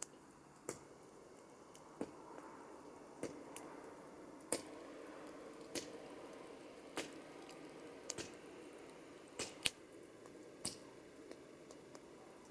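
Campfire burning, wood crackling and popping: a soft steady hiss of flames with sharp pops at irregular intervals, roughly one a second.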